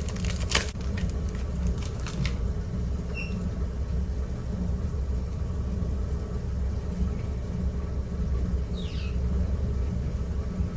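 A steady low mechanical rumble, with a few sharp clicks in the first two seconds.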